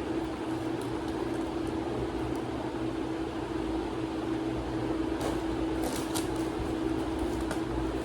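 A steady machine hum holding one constant tone over a noisy whir, with a few light clicks about five to six seconds in.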